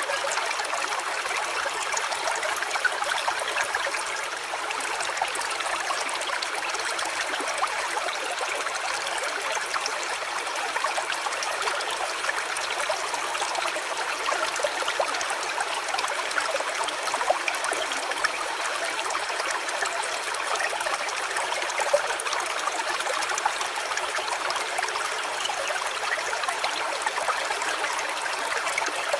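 Small stream running and trickling steadily over stones.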